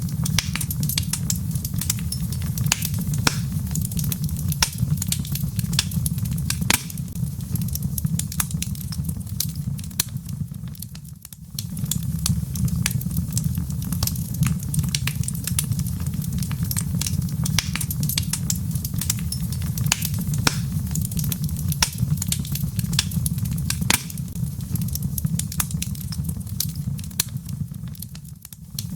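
Wood fire in a fireplace crackling, with frequent sharp pops and snaps over a steady low rush. The sound dips briefly about eleven seconds in and again near the end.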